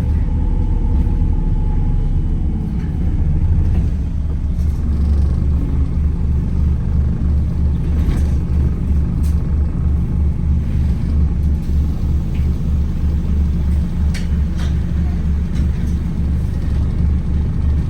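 Wright Gemini 2 hybrid double-decker bus on the move, heard from inside: a steady low drone of the drivetrain and road rumble. A faint whine falls in pitch in the first couple of seconds, and a few light clicks or rattles come later.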